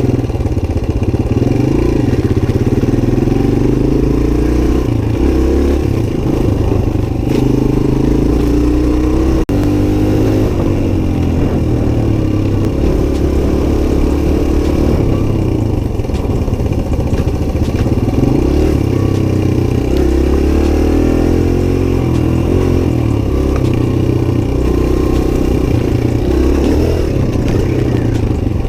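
Suzuki DR-Z125's single-cylinder four-stroke engine running as the bike is ridden, its revs rising and falling again and again. There is a brief break in the sound about nine and a half seconds in.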